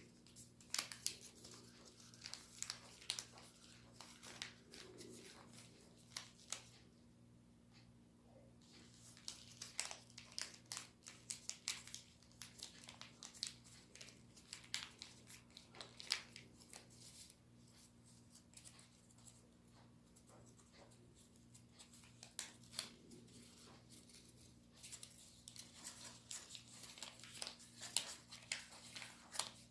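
A sheet of origami paper being folded and creased by hand: crisp crinkles, rustles and creasing taps in scattered bursts, with short pauses, over a faint steady hum.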